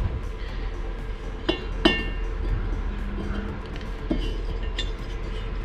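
Metal parts of a diesel heater's burner assembly clinking as they are handled and fitted back together: about four light clinks, two close together with a brief metallic ring, over a steady low hum.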